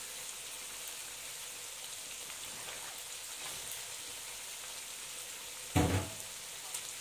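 Diced carrots and chicken pieces sizzling steadily in a metal pan over a gas flame, with one brief knock near the end.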